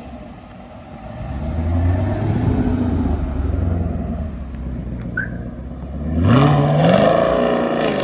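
A car engine running steadily, then revving up with a rising pitch about six seconds in, the loudest part.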